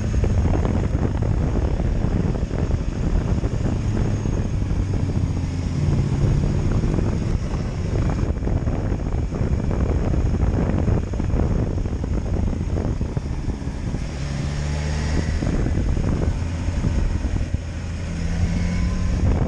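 Kawasaki Ninja H2 SX SE's supercharged inline-four running on the move, its engine note shifting in pitch a few times, under heavy wind buffeting on the microphone.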